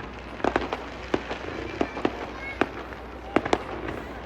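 Fireworks going off: an irregular run of sharp pops and bangs, several a second, some louder than others.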